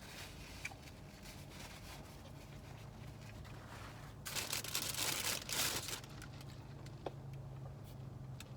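Crinkling and rustling for about two seconds midway through, over a faint steady low hum.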